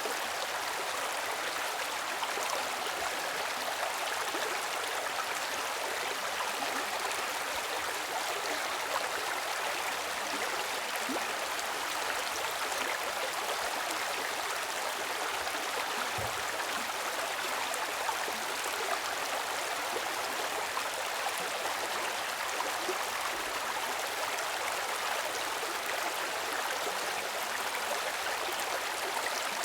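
A stream's water flowing steadily, an even rushing with no breaks.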